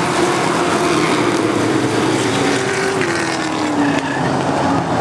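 NASCAR truck-series race trucks' V8 engines running at speed, a loud dense mix of several engines; about three seconds in, one engine's pitch drops as a truck goes by.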